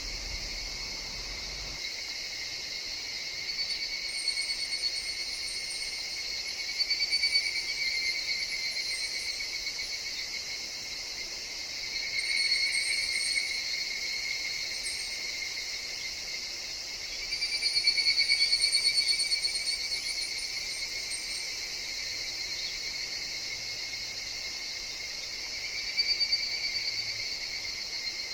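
Higurashi (evening cicadas) and other insects calling in a steady high chorus, with louder swells every few seconds, the strongest about two-thirds of the way in. Brief, very high chirps come and go above the chorus.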